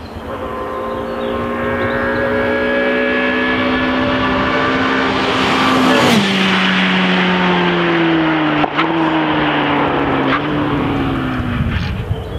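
A Formule Opel Lotus single-seater's four-cylinder racing engine running at high revs as the car approaches. It is loudest about six seconds in, where the pitch drops sharply as it passes. It then pulls away with a falling note and two sharp cracks near the end.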